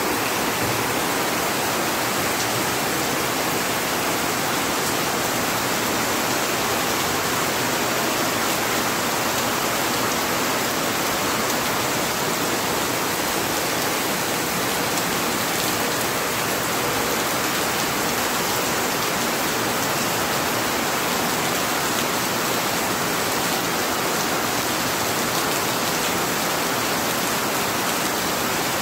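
Heavy rain pouring steadily onto a wet paved courtyard and surrounding foliage: a dense, even hiss with no let-up.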